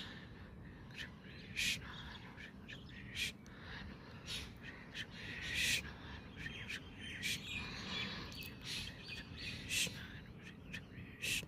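Birds calling: many short, sharp calls at irregular intervals over a steady low background rumble.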